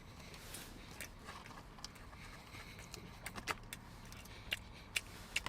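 Faint, scattered crackles and clicks of someone chewing a crispy-shelled pork lumpia (Filipino egg roll).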